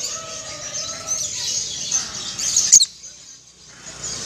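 Songbirds chirping and singing in a dense, high chatter, with a single sharp click about two-thirds of the way through.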